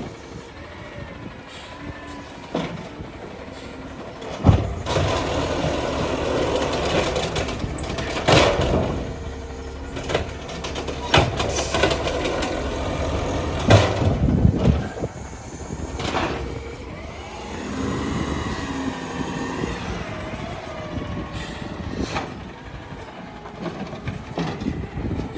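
Battle Motors Amrep automated side-loader garbage truck at work: the truck's machinery runs up with a bending whine, and sharp clanks and knocks come from about five seconds in for around ten seconds, then it eases off.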